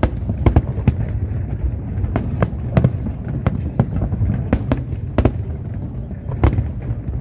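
Aerial fireworks display: a rapid, irregular series of sharp bangs and cracks, two or three a second, over a continuous low rumble of shells bursting.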